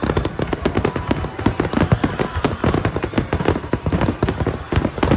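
Fireworks going off in a dense, rapid string of bangs and crackles. The barrage gets suddenly louder at the start.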